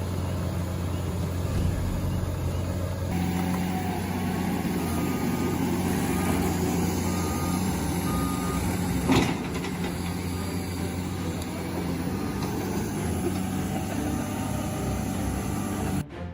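Heavy truck engine running steadily, with a reversing alarm giving a row of short beeps midway and a sharp knock a little later.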